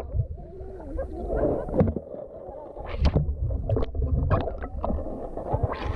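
Pool water sloshing and splashing, with a low rumble and several short, sharp splashes.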